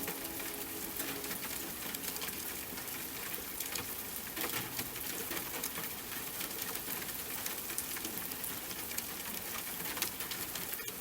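Steady rain pattering on a surface: an even hiss dotted with many small drop ticks.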